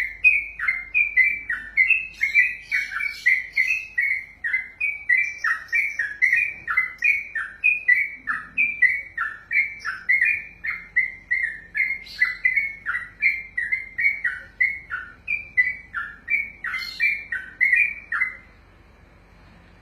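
Sooty-headed bulbul (trucukan) singing a long unbroken ropelan: a rapid string of short, clear, warbling notes, about three a second, that stops abruptly near the end.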